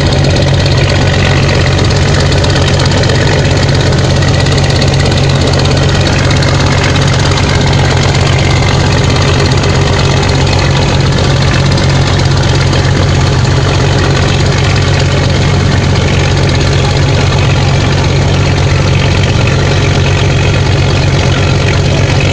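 Heavy truck's diesel engine running loud and steady under heavy load, labouring hard.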